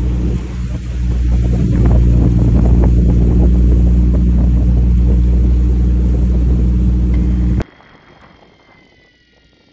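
Fishing boat's engine running steadily with a low, even drone, cutting off abruptly about three-quarters of the way through into a much quieter stretch with a few faint high steady tones.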